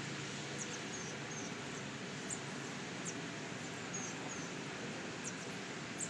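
Faint high chirps of small birds, a few each second, over a steady hiss of background noise.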